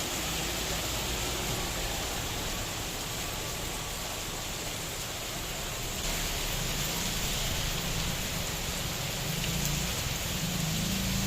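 Steady rain falling, with a low rumble underneath that swells about six seconds in and again near the end.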